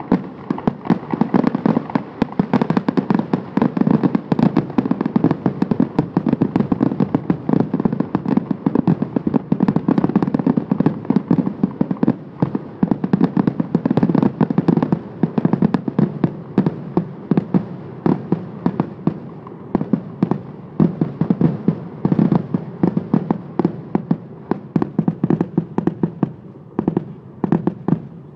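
Fireworks going off in a rapid, continuous barrage of bangs and crackles, thinning to fewer, more spaced bangs near the end.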